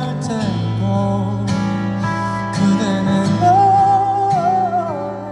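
Live pop song with strummed acoustic guitar and bass chords. About the middle, a singing voice holds one long wavering note that falls away near the end.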